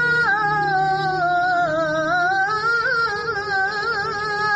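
A boy reciting the Quran in melodic tilawah style, holding one long ornamented note that wavers, dips in pitch around the middle and climbs back.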